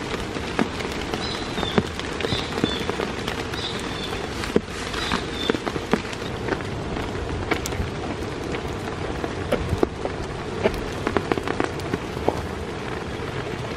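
Heavy rain falling steadily, with many sharp individual drops striking close by.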